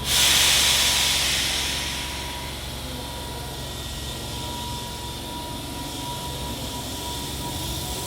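A sudden burst of compressed-air hiss from a Hankyu 7000 series train's pneumatic system as it readies to depart, fading over about two seconds. After it the stopped train hums steadily, with a thin high whine.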